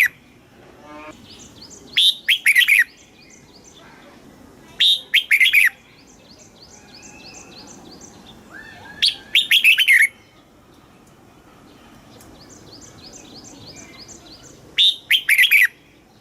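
Red-whiskered bulbul singing: four short, loud, bubbling song phrases, each under a second, a few seconds apart. Fainter quick runs of repeated high chirps sound between the phrases.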